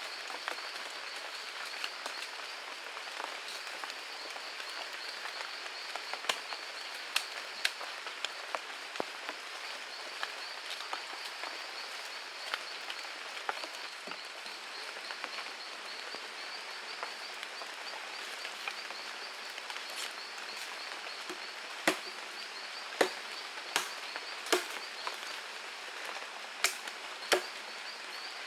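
Steady high chirring of insects, with sharp knocks scattered through it that come louder and about once a second in the last few seconds.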